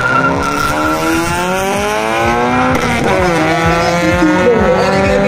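Car accelerating hard away down a drag strip at full throttle. The engine's pitch climbs, drops sharply at a gear change about three seconds in, then climbs again.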